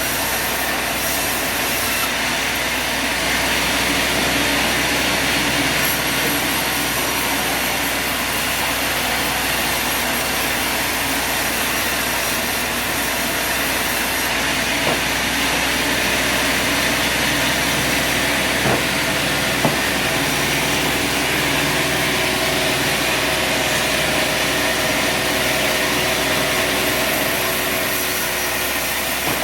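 Sawmill running steadily, its engine and saw making an even mechanical noise, with a few brief knocks about halfway through.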